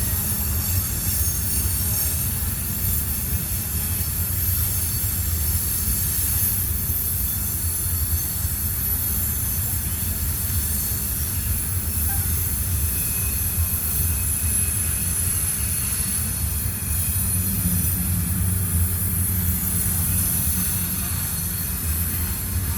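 Freight train rolling through a tight curve: a steady low rumble of the cars with continuous high-pitched wheel-flange squeal.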